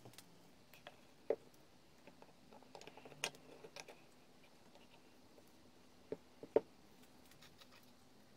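Sparse light clicks and knocks of small hard objects, a handful spread over several seconds with the sharpest near the middle and the end, over a faint steady hum.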